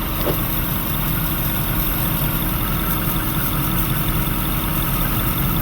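Car engine idling steadily, an engine with a suspected intake air (vacuum) leak.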